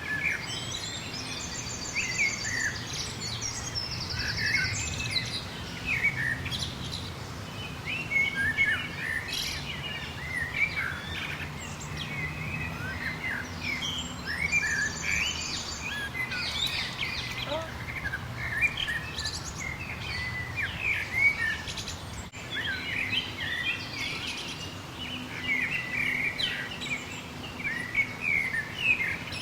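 Several birds chirping and calling at once: many short overlapping chirps, with a fast high trill twice, near the start and about halfway through. A steady low hum runs underneath.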